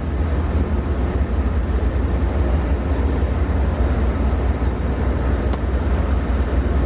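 Steady low rumble and running noise of a moving vehicle, with one short click about five and a half seconds in.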